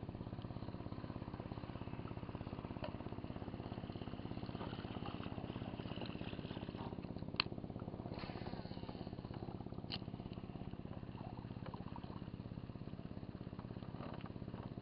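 A small engine running steadily at an even speed, with two sharp clicks, one about halfway through and one a couple of seconds later.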